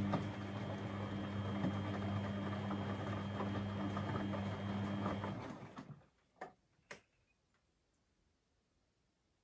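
Beko WMB 71643 PTE washing machine's brushed motor turning the drum during washing: a steady hum over sloshing and tumbling laundry that stops about five and a half seconds in, as the drum pauses in its wash rhythm. Two soft clicks follow, then near silence.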